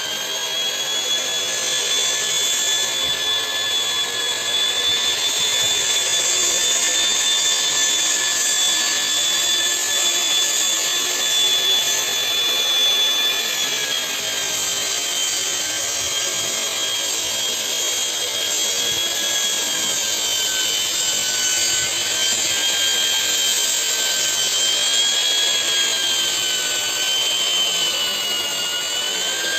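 Electric drywall sander running: a steady, high motor whine over a rushing hiss, its pitch sagging and wavering slightly in the second half.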